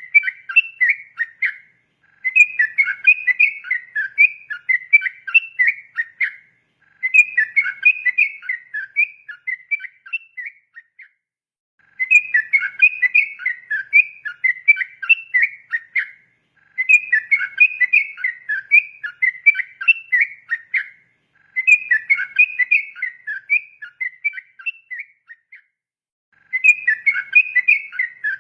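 Yellow-vented bulbul (trucukan) singing its long rolling 'ropel' song: rapid chattering, whistled phrases of about four seconds each, repeated seven times with short pauses between.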